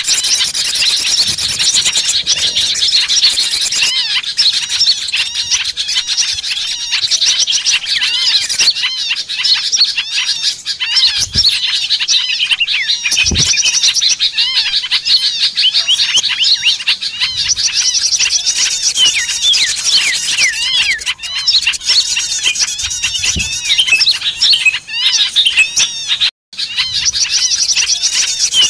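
Dense chorus of many small songbirds chattering and calling at once, a constant tangle of quick, high, rising-and-falling notes with no pauses, as in a bird-trapping lure recording of agitated small birds. The sound drops out for a moment near the end.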